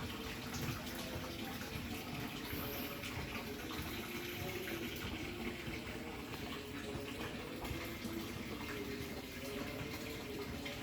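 Water running steadily, with a faint low hum underneath.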